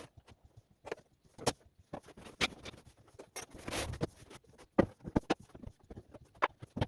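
Scattered light knocks and clicks of wooden beehive parts being handled and set down during unboxing, with a brief rustling sound about four seconds in.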